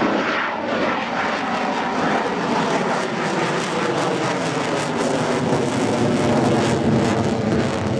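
F-16 Fighting Falcon's single turbofan engine running loud and steady on full afterburner, with a rough crackle building from about three seconds in.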